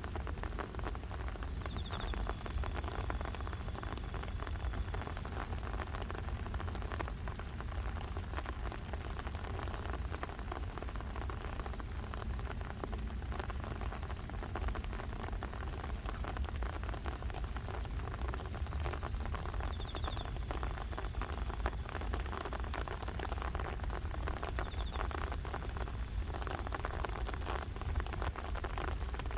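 Grass insects such as crickets chirping: one calls in short pulsed chirps about once a second, while another keeps up a steady high-pitched trill that stops about two-thirds of the way through. A low steady rumble runs underneath.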